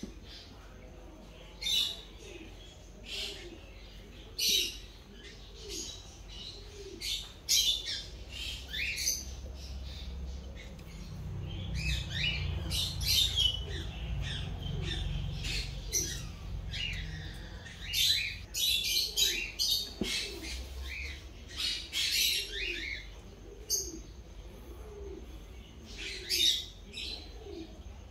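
Small birds chirping: many short, high-pitched, falling chirps in quick runs, with gaps of a second or two between them.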